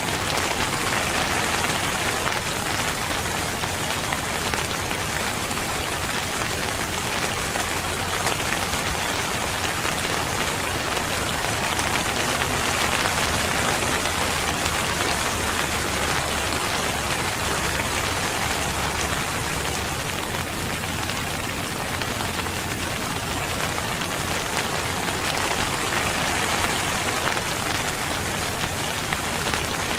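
Steady rain falling, a dense, even hiss of drops with no pauses.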